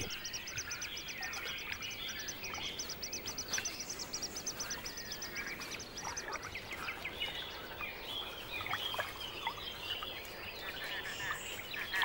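Birds calling in a wetland: a fast, high ticking trill that stops about six and a half seconds in, over scattered short chirps and whistles.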